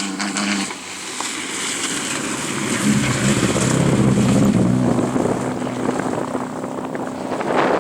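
Rally car engine at high revs passing close by, growing louder to a peak about three to four seconds in and then holding.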